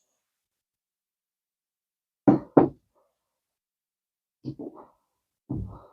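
Two sharp knocks close together about two seconds in, then a few softer knocks, from handling the glass perfume bottle and its metal cap after spraying.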